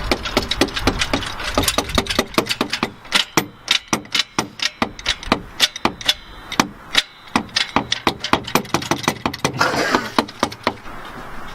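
A rapid, uneven run of sharp clicks and knocks, several a second, with a short hiss about ten seconds in.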